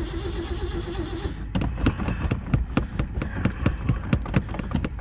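Old truck engine cranking on its starter with a pulsing whine, then catching about a second and a half in and firing unevenly with sharp knocks a few times a second. It is a cold start on a starter that is acting up.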